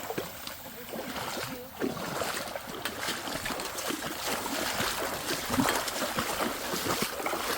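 Creek water running, with irregular splashes and scuffs throughout.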